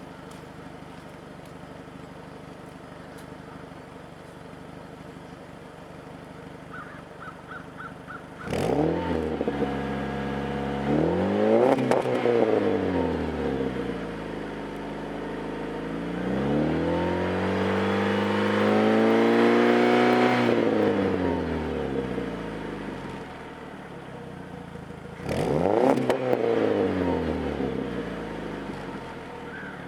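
2005 Dodge Neon SXT's 2.0-litre four-cylinder idling through a newly fitted full cat-back exhaust, then revved three times. First comes a quick blip about a third of the way in, then a longer, slower climb held near the middle, then a sharp blip near the end, each falling back to idle.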